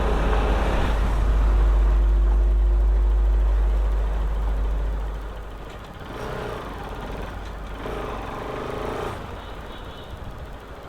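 Motor vehicles on the road, with a heavy low rumble of wind on the microphone for the first few seconds. The sound then quietens, and two brief swells follow, like vehicles going past.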